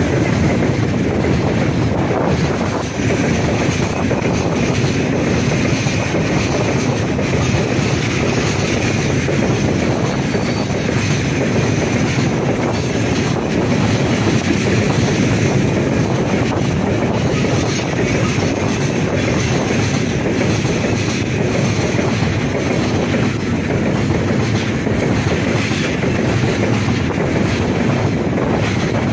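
Heavy freight train of open-top gondola wagons rolling past, a steady loud rumble with the rattle and clatter of wheels on the rails.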